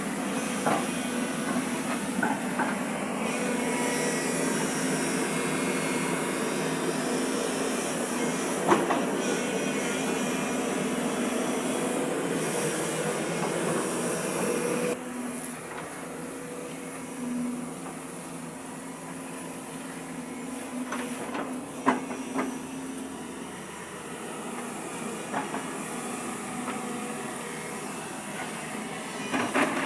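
Excavator engine and hydraulics running steadily, with a few sharp metallic clanks. The sound drops suddenly to a lower level about halfway through.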